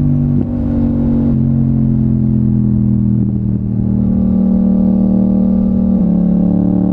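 Yamaha MT-07's crossplane parallel-twin engine running under way. The pitch steps down about a second in, sags slowly for several seconds, then starts to climb again near the end.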